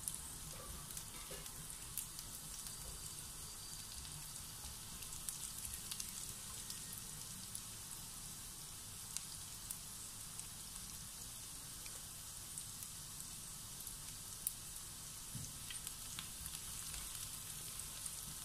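Minced garlic sautéing in a tablespoon of cooking oil in a pan: a faint, steady sizzle with scattered small crackles and pops.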